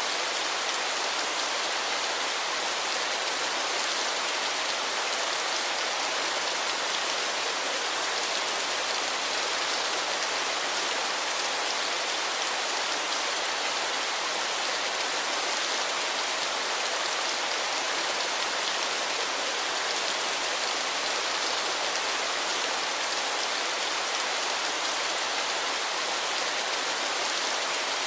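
Waterfall: a steady rushing hiss of falling water, even and unchanging.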